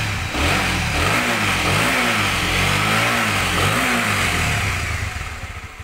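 Honda CB150R motorcycle's single-cylinder engine revved through its exhaust, about four quick blips of the throttle rising and falling, fading out near the end.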